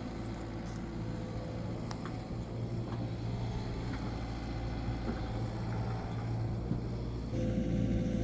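Excavator engine running steadily, a little louder about seven seconds in.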